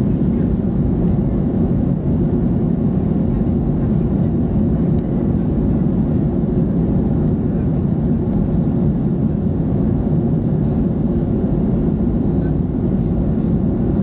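Steady low roar of a Boeing 737-300's CFM56 jet engines and rushing air, heard inside the passenger cabin in flight.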